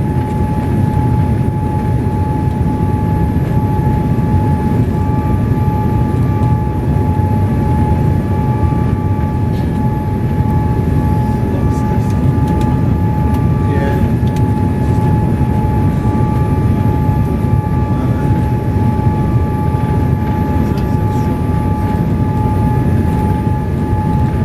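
Steady cabin noise inside a Boeing 787-8 Dreamliner: a constant low rumble of engines and airflow with a steady whine held on one pitch above it.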